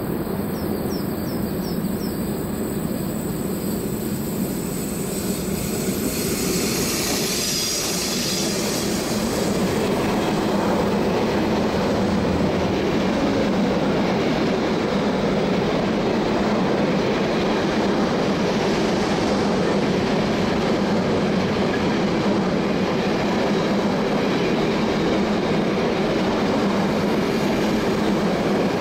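Train running on the rails: a steady rumble of wheels on track, with wheel squeal and clickety-clack. It gets a little louder about ten seconds in.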